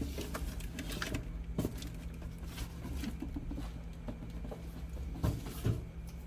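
Cardboard box and packaging being handled and moved, with scattered light knocks and rustles over a steady low hum.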